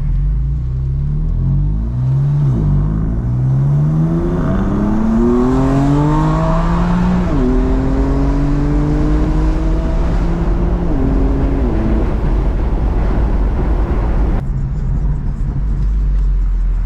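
Car engine accelerating hard through the gears, its pitch climbing and dropping back at each upshift, about five times in a row. About fourteen seconds in it eases off to a steady low cruise.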